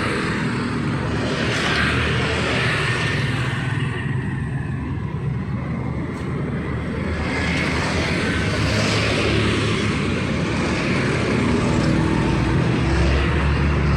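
Street traffic: vehicles passing with engine hum and a steady hiss that swells and eases several times.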